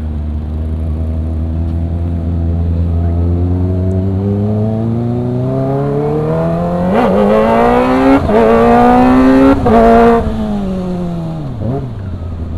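Kawasaki ZX-25R's 250 cc inline-four engine revving up hard as the bike accelerates: the pitch climbs steadily for several seconds, then steps through quick gear changes about seven to ten seconds in, at its loudest. The revs then fall away as it slows, with a brief blip near the end.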